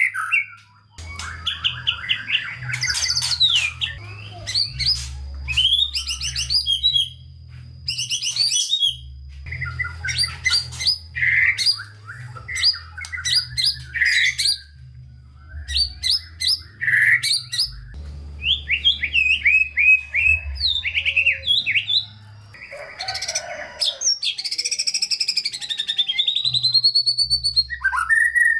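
White-rumped shama (murai batu) singing a long, varied song: quick chirp series, trills and rising and falling whistled phrases, broken by short pauses.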